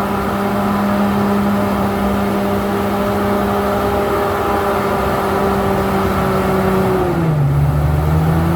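Komatsu D68ESS bulldozer's diesel engine running steadily at high revs. About seven seconds in, the engine speed drops sharply and holds low, then begins to climb again near the end.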